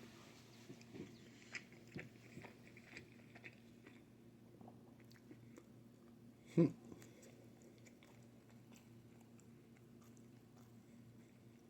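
Close-up chewing of pizza, with soft wet mouth clicks over the first few seconds. A single short, loud, low thump comes about six and a half seconds in, and a faint steady hum follows.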